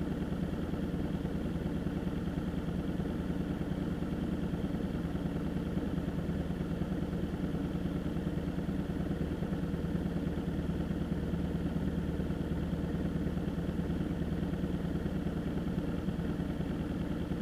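A vehicle engine running steadily at an unchanging speed, with no revving.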